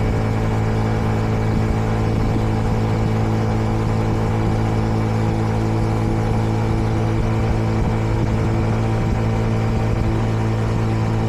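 Kreidler Dice CR 125 single-cylinder engine running at a steady, unchanging pitch while the motorcycle rides along, heard from on the bike. The engine is still being run in, so it is held to moderate revs.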